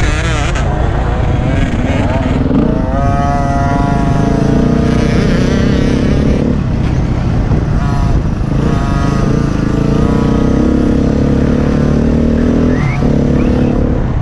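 Dirt bike engines running loud and revving up and down over a motocross lap, with noise from several bikes mixed together, including big four-stroke bikes.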